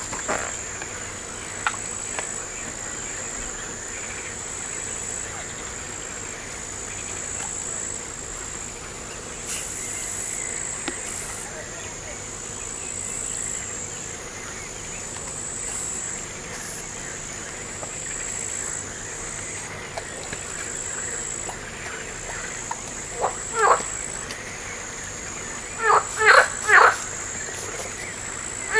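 Crickets or similar insects trilling in a steady high-pitched chorus that swells and fades every second or so. Near the end an animal gives short, upward-sweeping calls in quick runs of two to four, louder than the insects.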